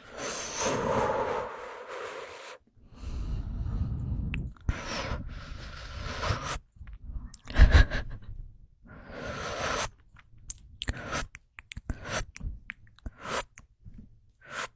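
Objects handled close to an ASMR microphone: several long bursts of rustling, squishing noise, a sharp knock about eight seconds in, then scattered short clicks and taps.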